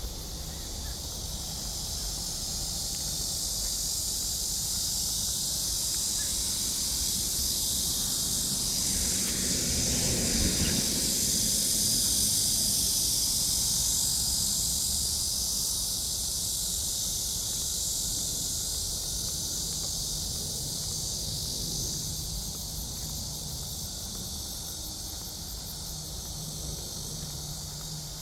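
Outdoor insect chorus: a dense, high-pitched buzzing hiss that swells toward the middle and slowly fades. A brief lower rustling noise comes about ten seconds in.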